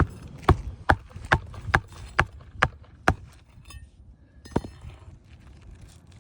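Hand hammer driving roofing nails into asphalt shingles: seven sharp blows at a steady pace of a little over two a second, then one more blow after a short pause.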